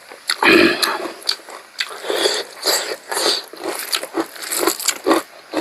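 Close-miked eating sounds: a person biting and chewing pork curry, with irregular short wet clicks and crunches several times a second.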